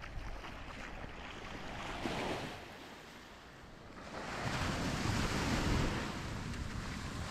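Small sea waves breaking and washing up a sandy beach: a light wash about two seconds in, then a bigger wave breaking and running up the sand about four seconds in, fading slowly.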